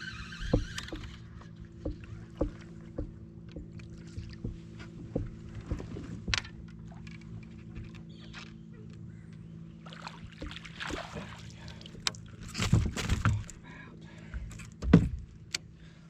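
Hooked bass being fought and reeled in beside a fishing kayak. Light clicks come roughly every half second through the first half, and louder splashes and knocks come near the end. A steady low hum runs underneath.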